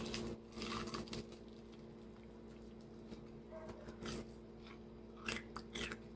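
Faint chewing and crunching of burnt fried chicken, in a few short bursts of mouth sounds, over a steady low hum.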